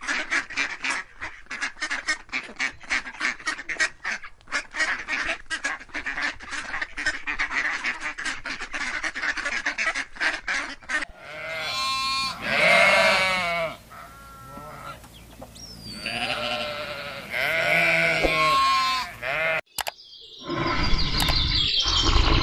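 Waterfowl calling rapidly, many short calls a second, for about the first half. Then a flock of sheep bleating in several long wavering bleats. Near the end a loud low rumbling noise starts.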